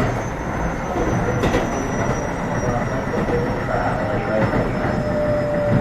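Running noise inside a Keio 7000 series electric train car at speed: steady wheel-on-rail rumble, with two sharp clicks of the wheels over rail joints and a faint high whine slowly falling in pitch.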